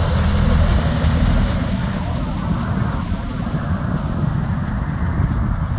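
Heavy truck driving by on the road: a steady low diesel engine rumble with tyre and road noise, the hiss easing after about two seconds.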